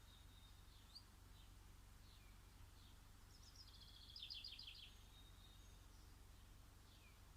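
Faint songbirds singing: a thin, high held whistle, a short rising note, then a quick run of chirps about four seconds in and a falling note near the end, over a steady low hum.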